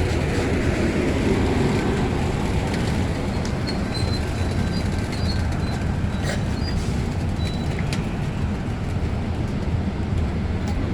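Amtrak San Joaquin passenger train rolling into the station with a steady low rumble, with faint high squeaks near the middle and a couple of sharp clicks.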